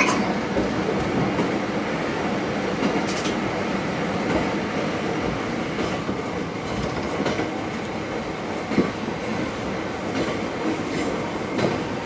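Diesel railcar running along single track, heard from on board: a steady running noise of wheels on rail, with a few sharp clicks as the wheels cross rail joints.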